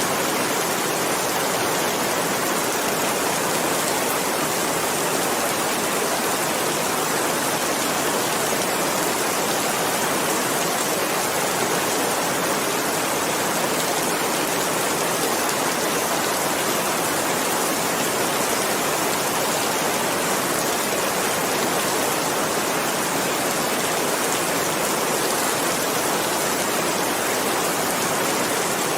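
Steady heavy rain falling, a dense even hiss of drops with no change or separate events.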